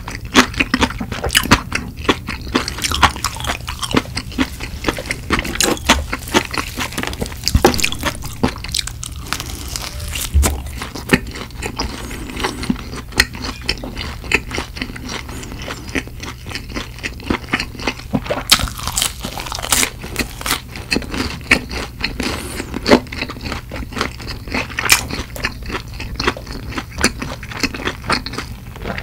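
Close-miked chewing and biting of crispy fried chicken with a cheese-powder coating (BBQ Cheesling chicken): a dense, irregular run of crackling crunches that keeps up throughout.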